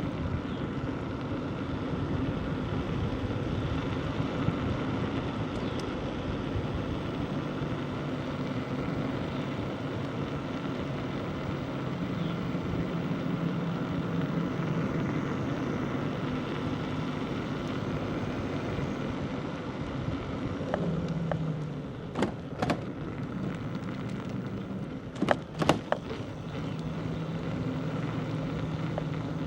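Bicycle rolling along a country road: steady tyre and wind noise with a low hum underneath. Several sharp knocks or rattles come about two-thirds of the way through, the loudest pair shortly after.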